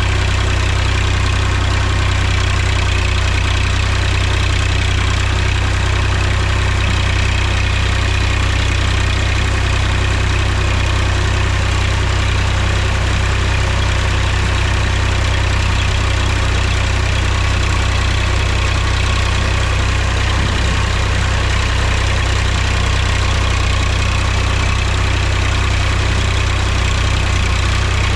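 Mahindra tractor's diesel engine running steadily, a constant low engine drone with no change in speed.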